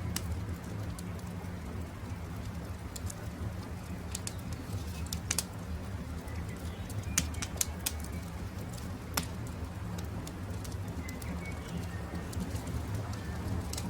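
Campfire crackling, with irregular sharp pops over a steady low rumble, and birds calling faintly in the background.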